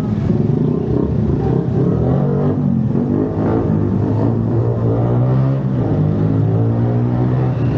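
Motor vehicle engine running, its pitch rising and falling as it revs, then holding steady for a couple of seconds.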